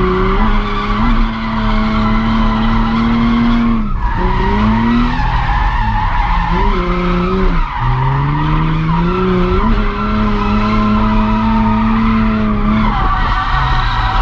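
A drift car's engine held at high revs under throttle while its rear tyres squeal through a drift. The revs drop and climb back about four seconds in, again near eight seconds, and once more at the very end.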